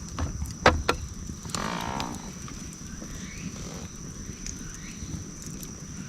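Wood campfire burning with a low rumble and scattered crackles, and two sharp pops of snapping wood in quick succession just under a second in.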